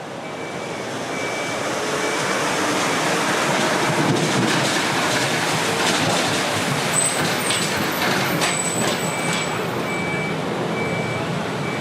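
Jet airliner engines: a broad roar that swells over the first few seconds, peaks in the middle and then holds steady as the aircraft passes.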